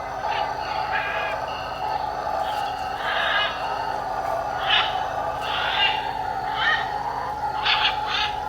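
Amazon rainforest ambience: a steady drone of wildlife with short animal calls repeating about once a second, more of them from about three seconds in.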